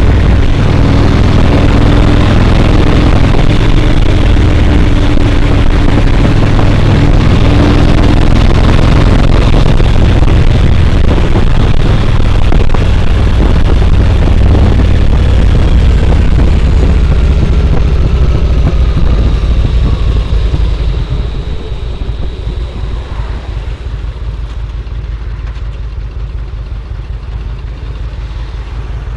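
Yamaha Road Star XV1600 V-twin engine running loud and steady while the motorcycle is ridden. About two-thirds of the way through it eases off and settles to a quieter idle with an even low beat.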